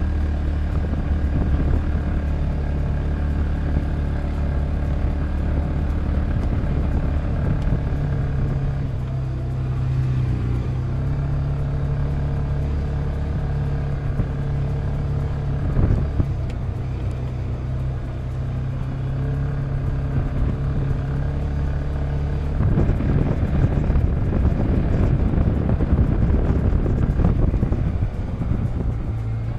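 Polaris Ranger 570 side-by-side's single-cylinder engine running under way, its pitch shifting a few times and louder for several seconds near the end.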